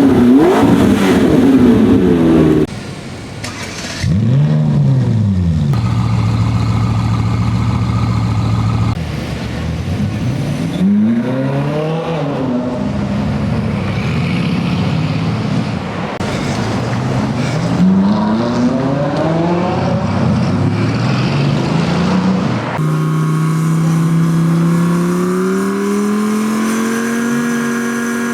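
Supercar engines heard one after another in abrupt cuts: several sharp revs that rise and fall back, a steady idle, and near the end one long rise in pitch as a car accelerates.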